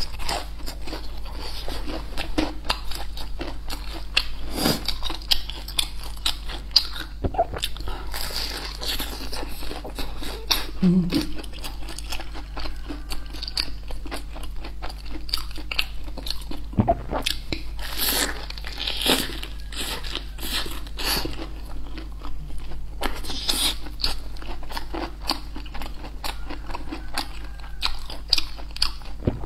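Close-miked crunchy bites and chewing of a deep-fried battered mushroom, with many crisp crackles from the coating.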